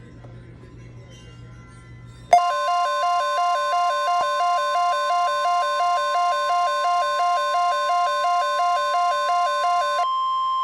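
Weather radio alert tone: a loud, steady electronic tone near 1 kHz, the warning alarm tone that comes before a broadcast watch, overlaid with a second tone stepping up and down several times a second. It starts suddenly about two seconds in, after faint background sound. Near the end the stepping tone stops and only the steady tone carries on.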